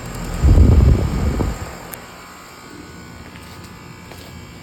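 Outdoor air-conditioning condensing unit running with a steady hum. About half a second in, a loud, irregular low rumble lasts about a second and then dies back to the steady running sound.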